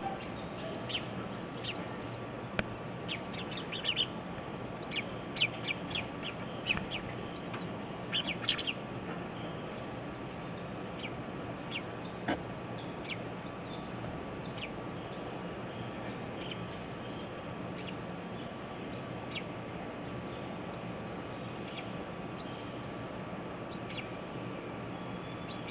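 Black bulbuls chirping: short, high chirps come in quick clusters for the first nine seconds or so, then singly and scattered, over a steady low hum.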